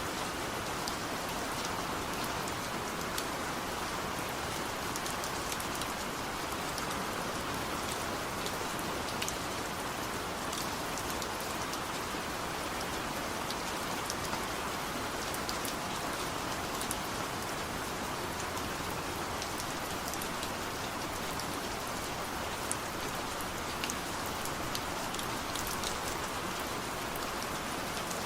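Steady rain falling, with a constant hiss and many small, separate drops tapping on a surface.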